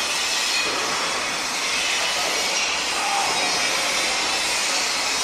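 Construction-site din: a steady mechanical rush of machinery noise with a faint whine running through it.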